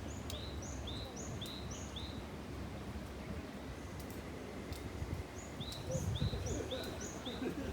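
A bird calling outdoors in two quick runs of about four short, high notes each, one run at the start and another about two-thirds of the way through. Scattered sharp clicks and a steady low rumble of background noise lie under it.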